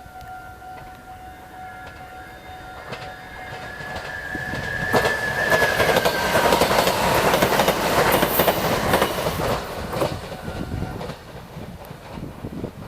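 Japanese electric train passing over a level crossing: it approaches with a whine rising slightly in pitch, then goes by loudly for about five seconds with rapid clickety-clack of wheels over rail joints, and fades away. A steady crossing warning tone sounds at the start and stops within the first few seconds.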